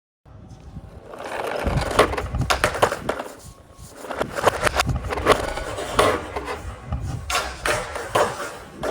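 Toy tractor and trolley rolling along a hard ramp: a rumble of small wheels with many sharp clicks and clatters, rising and falling in three surges.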